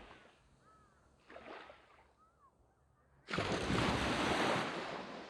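Sea waves on a sandy beach: after a quiet lull, a wave breaks loudly about three seconds in and its wash runs up the sand, fading away near the end.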